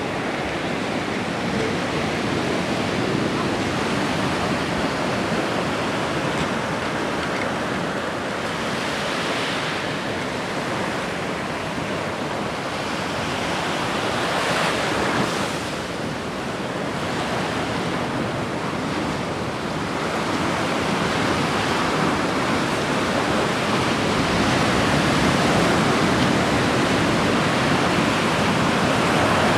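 Ocean surf on a beach: a steady rush of waves, swelling a little a couple of times as waves break.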